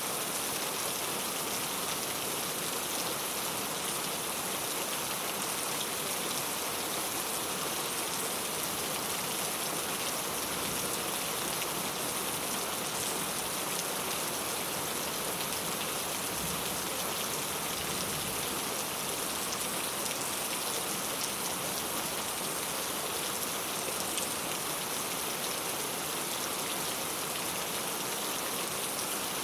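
Steady rain falling on a clay tile roof, an even patter of drops with no let-up.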